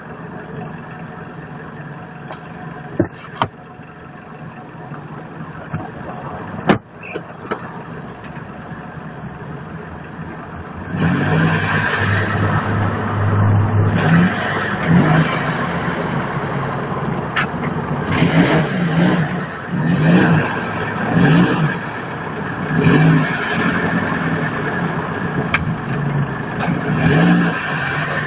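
Hyundai Getz engine running, with repeated short revs every second or two as the car is rocked back and forth so a pipe fixed to the wheel rolls out the wheel-arch lip. Quieter with a few sharp clicks at first, then much louder from about eleven seconds in.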